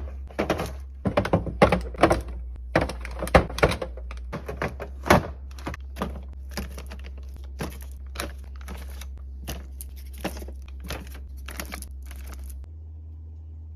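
Fast, irregular clacks, taps and thunks of containers and packaging being handled and set down while restocking a fridge, stopping about a second before the end and leaving a low steady hum.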